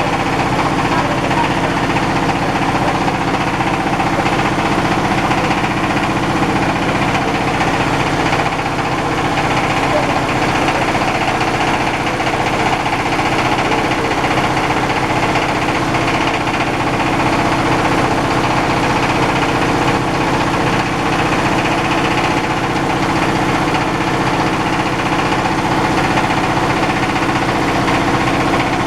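Diesel engine driving a rice husker, running at a steady speed.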